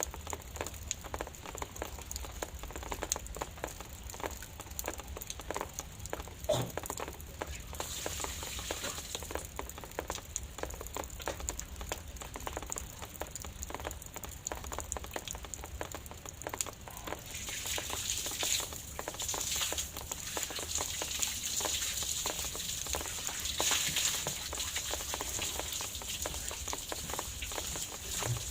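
Drizzle falling: a dense patter of small drops over a steady hiss, which grows fuller about two-thirds of the way in.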